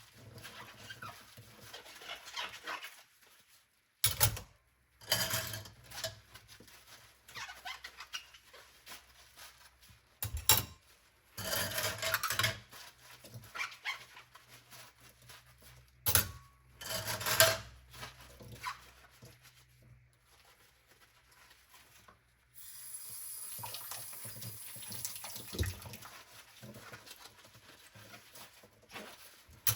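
Dishes being hand-washed at a kitchen sink: crockery and cutlery clinking and knocking together in separate clatters. About two thirds of the way through, the tap runs steadily for several seconds.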